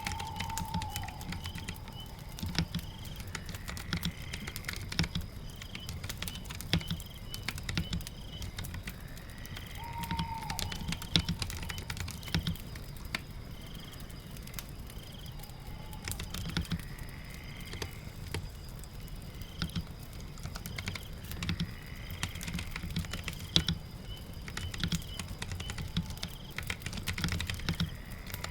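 Typing on a computer keyboard: irregular key clicks with soft thumps, over a steady rain ambience. Faint short chirps repeat in the background, with an occasional brief whistled call.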